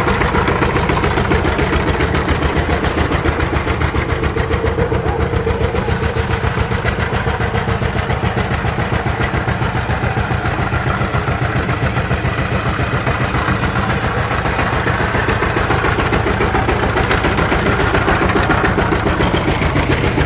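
Power tiller's diesel engine running steadily at idle, with a fast, even chugging.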